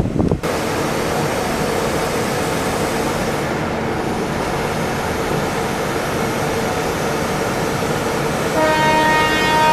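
Indian Railways express train sounding at the trackside: a steady, loud rushing noise with a faint steady hum underneath. About eight and a half seconds in, a locomotive horn sounds and holds.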